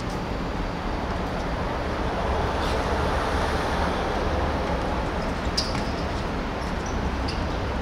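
Steady outdoor background noise at a football pitch: a low rumble and hiss, with a few faint short knocks, one about two-thirds of the way through.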